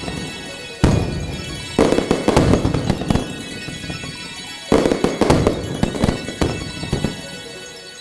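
Fireworks going off: sharp bangs about a second in, near two seconds and near five seconds, each followed by a run of rapid crackling. Music plays underneath.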